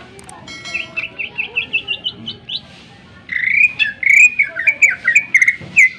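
Cucak ijo (greater green leafbird) singing: a run of short chirps that climb steadily in pitch, then after a brief pause a louder, fast, varied warbling phrase.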